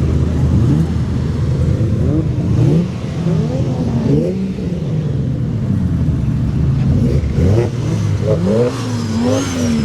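Car engines revving over a steady idle: a run of short rising revs, one after another, through most of the stretch.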